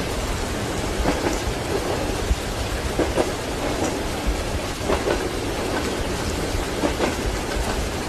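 Steady rain hiss over a low thunder rumble, with train wheels clacking over rail joints: a double clack about every two seconds.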